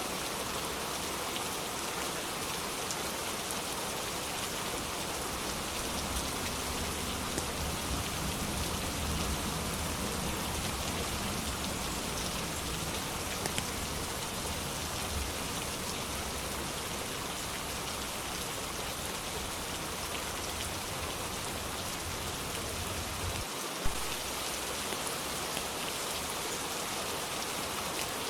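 Steady rain falling, an even continuous hiss of drops hitting a surface. A low rumble swells under it for several seconds in the middle, and a single sharp click comes near the end.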